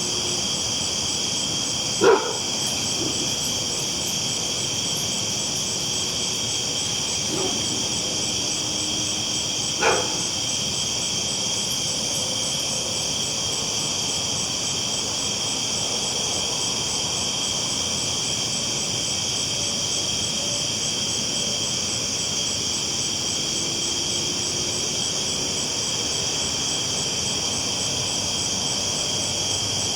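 Steady rolling rumble of a train at night under a constant chorus of night insects, with a dog barking once about two seconds in and again about ten seconds in.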